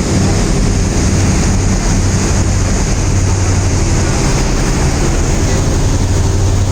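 Steady low motor drone over a constant rushing noise, unchanging throughout.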